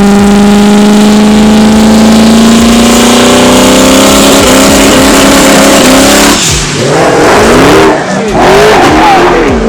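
V8 race car at wide-open throttle, very loud, its engine note climbing slowly in pitch as it pulls hard. About six seconds in the steady note breaks up into a rougher, wavering noise.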